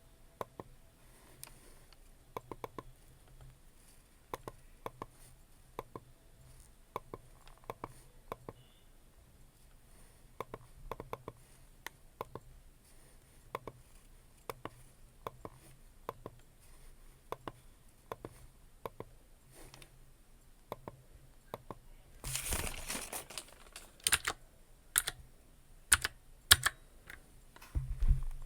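Computer keyboard typing: slow, unhurried keystrokes clicking one or two at a time. About 22 seconds in comes a brief rustle, followed by a few louder, sharper clicks.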